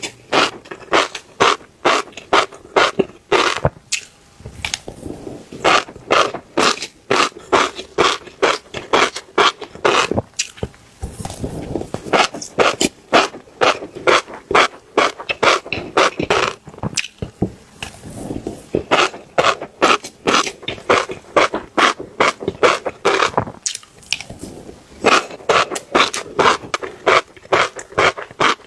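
Fish roe giving rapid, wet-sounding clicks several times a second, in runs of a few seconds with short pauses between them.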